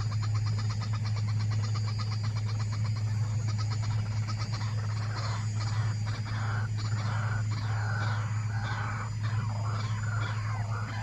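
White-breasted waterhen (ruak-ruak) calls: a rapid run of clicking notes, then a series of harsh, repeated calls about twice a second, over a steady low hum.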